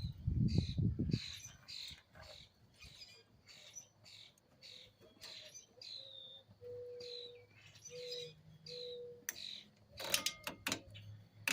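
Birds chirping, short high chirps repeating about twice a second, with a few short steady lower notes midway. A quick cluster of sharp clicks, like metal parts or tools knocking, comes near the end.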